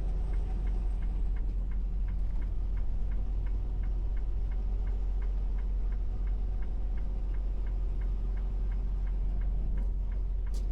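Turn signal ticking steadily, about three clicks a second, over the constant low drone of a semi truck's engine and road noise in the cab.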